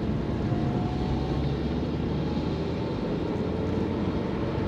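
Steady rumble of a car driving, road and engine noise heard from inside the cabin.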